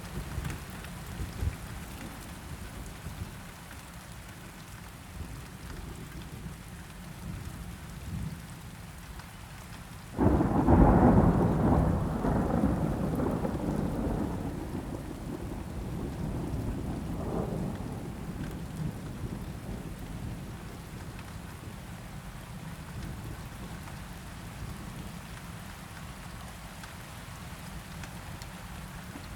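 Steady rainfall with a thunderclap about ten seconds in: a sudden loud crack that rolls on as a rumble and fades away over several seconds, with a smaller rumble a few seconds later.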